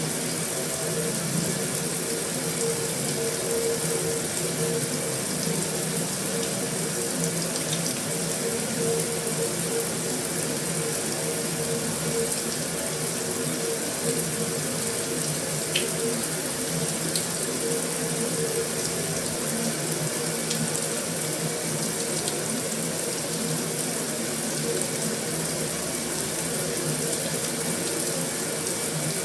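Heavy rain falling steadily on a metal roof, an even hiss with a few faint ticks.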